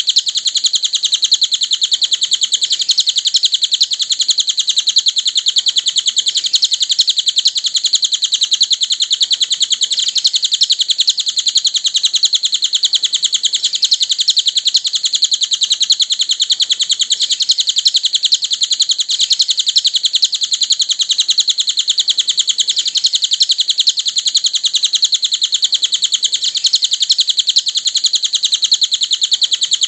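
Cililin songbird singing: a fast, high-pitched trill that runs on without a break.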